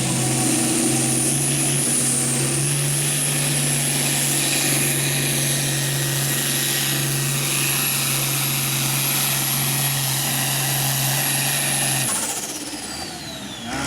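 Pulling tractor's diesel engine running hard and steady under full load, with a high whine over the low drone. About twelve seconds in the engine is throttled off, and the whine falls away as it winds down.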